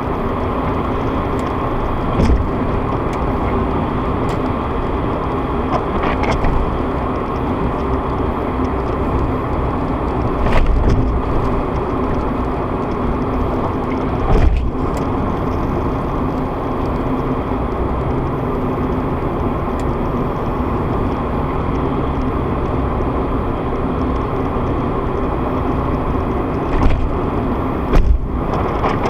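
Car cabin driving noise: steady engine and tyre hum, with a few brief low thumps spread through it.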